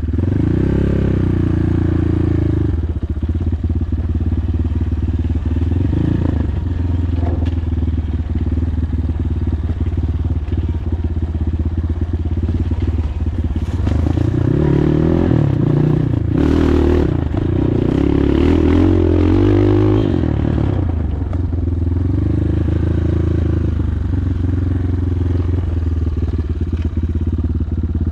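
PROGASI Super Max 250 enduro motorcycle engine running under way, mostly at a steady pace, with the revs rising and falling several times around the middle.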